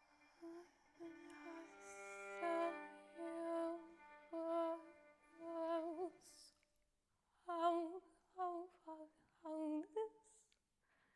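A woman's voice singing a series of short held notes with vibrato, in two phrases with a pause between them, over a faint steady drone.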